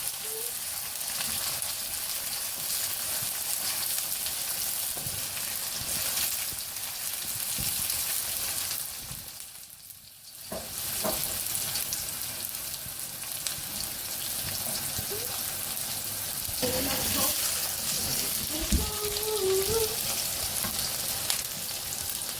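Chopped onions sizzling as they fry in hot oil in a pan, with a bay leaf and coriander seeds, stirred now and then with a spoon. The sizzle drops away briefly about ten seconds in, then returns.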